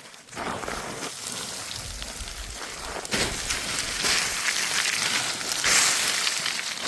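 Rushing water of a cascading mountain waterfall, a steady hiss that grows louder about half a second in and again about three seconds in.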